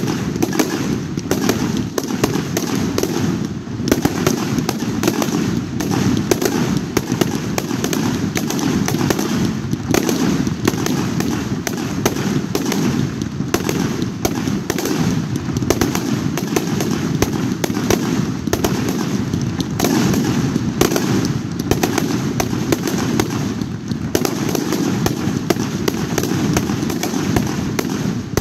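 Fireworks display fired at close range: an unbroken barrage of shell launches and bangs, many a second, over a continuous rumble.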